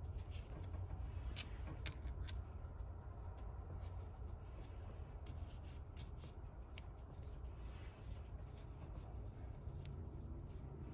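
Low steady hum with faint, scattered light clicks and rustles of small handling noise.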